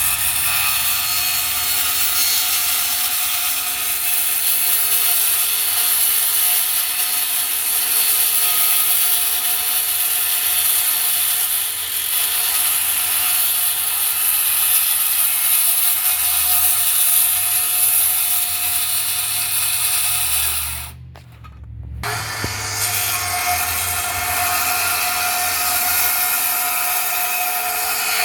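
Power saw cutting through wood, running steadily; it stops for about a second about two-thirds of the way through, then starts cutting again.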